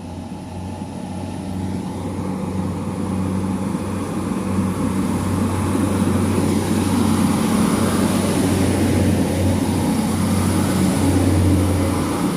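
NIR Class 3000 diesel multiple unit pulling away from the platform. Its underfloor diesel engine hums at a steady low pitch, growing louder over the first half and then holding loud as the train moves off past the microphone.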